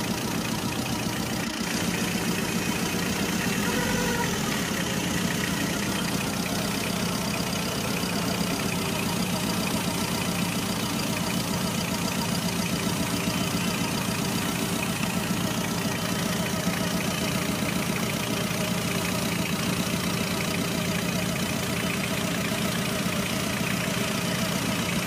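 An engine idling steadily, an even fast pulsing running without change.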